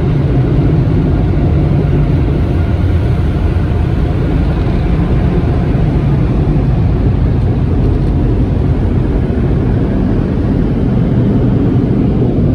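Automatic drive-through car wash machinery running, a loud, steady rushing roar heard from inside the car.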